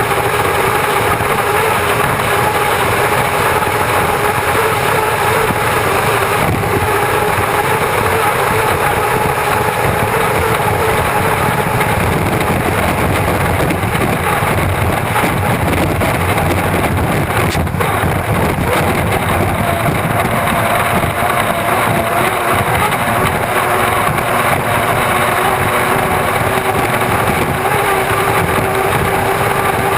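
Unlimited hydroplane's gas-turbine engine heard from onboard, running steadily with a constant whine over a dense rush of wind and water.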